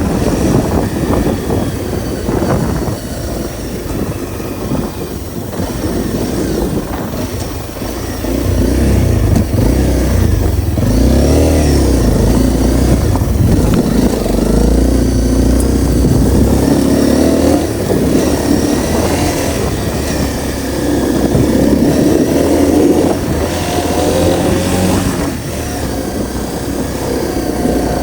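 Honda CRF250L's single-cylinder four-stroke engine running under way, its pitch rising and falling again and again with the throttle, louder from about eight seconds in.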